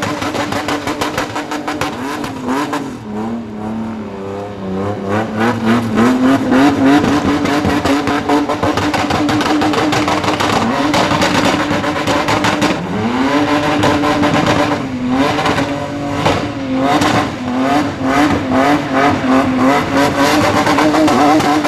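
Car engine running at high revs, its pitch dropping and climbing back twice as the revs fall and rise.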